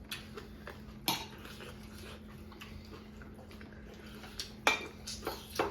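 Spoons and dishes clinking during a meal: a few scattered sharp clinks, about a second in and several near the end, over a faint steady hum.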